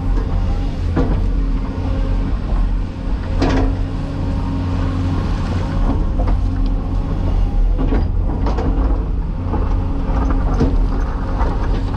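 Cat 336E hydraulic excavator's diesel engine running with a steady low drone, broken by several short metallic knocks and clanks from the machine working.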